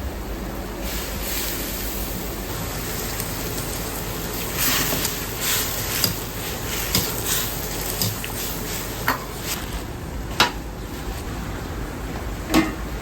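Ramen shop kitchen at work: a steady rushing noise from the stove and extraction, with scattered clinks and knocks of utensils, bowls and pans, the sharpest about ten and twelve and a half seconds in.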